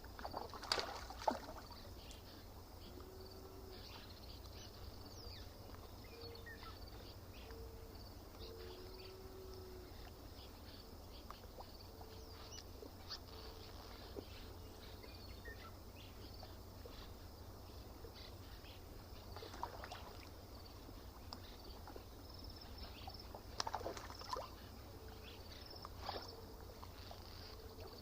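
Faint lakeshore ambience: water lapping and splashing briefly near the start and again a few times later, over a steady high insect chirring and a low rumble. Short, low, even notes recur now and then.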